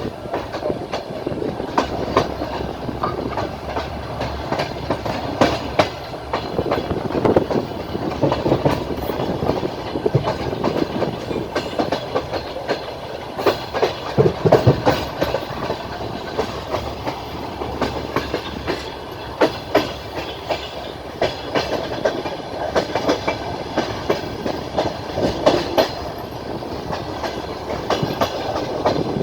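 Passenger train carriage running along the track: steady rumble of wheels on rail with the clickety-clack of wheels over rail joints and frequent sharp knocks.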